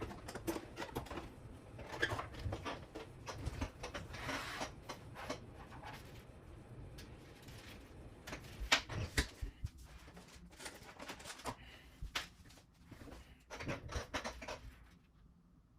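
Hands handling small plastic and metal helicopter parts: scattered light clicks, taps and rustles, with a louder knock about nine seconds in.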